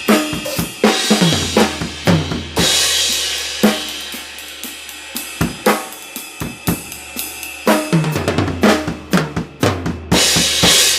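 TAMA Club-Jam drum kit with Istanbul Mehmet IMC Bronze cymbals played as a groove with tom fills: kick, snare, toms and hi-hat. A crash cymbal rings out about two and a half seconds in, and the playing ends on a last crash near the end that is cut off abruptly.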